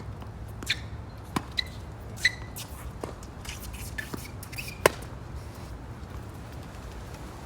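Tennis ball impacts: a string of sharp pops and bounces, about seven in the first five seconds, some with a short ring. Underneath is a steady low rumble of wind on the microphone.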